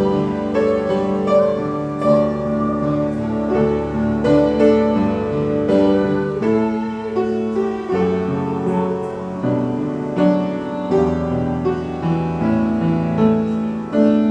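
Piano playing a slow chordal piece, with held chords, fresh notes struck about every half second, and a low bass line under them.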